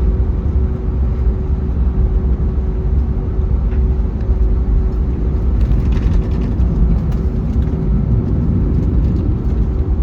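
Airbus A321neo cabin noise heard from a window seat: the Pratt & Whitney PW1100G geared turbofans running, a steady deep rumble with a constant hum over it.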